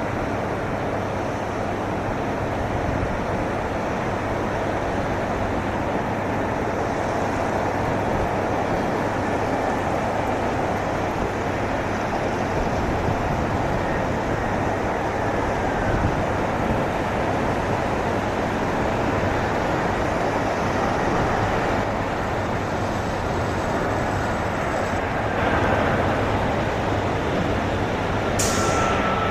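Airbus A319-111 jet engines making a steady roar during landing, with a faint falling whine near the end.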